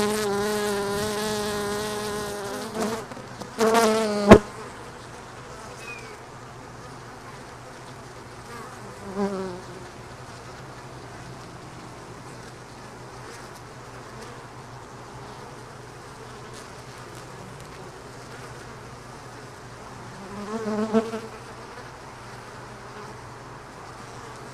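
Honeybees buzzing at an open hive. A bee buzzes loudly close by for the first few seconds, ending with a sharp click about four seconds in. After that the colony's steady low hum continues, with single bees buzzing briefly past about nine and twenty-one seconds in.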